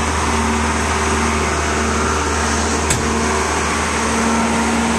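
Heavy diesel engine running steadily at a constant speed, with one sharp click about three seconds in.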